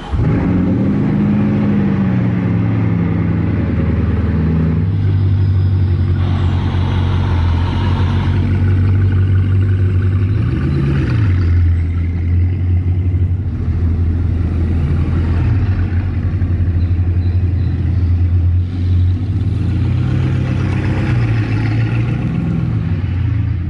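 Bugatti Chiron's quad-turbo W16 engine running under way, its pitch rising and falling over the first few seconds, then holding a fairly steady cruise with brief rises in revs.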